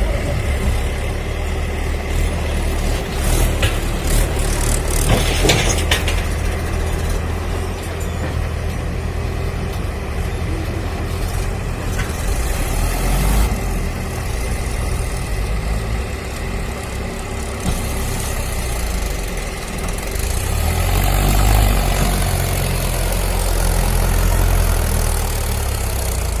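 Diesel engine of heavy machinery running with a steady low rumble, growing louder for a few seconds about twenty seconds in.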